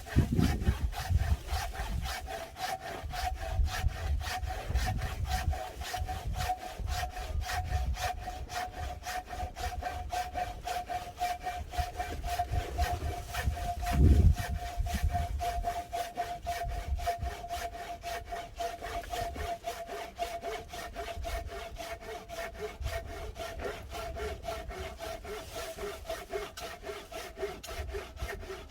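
Hand saw cutting firewood in steady, even back-and-forth strokes, with a faint steady whine underneath and a single thump about halfway through.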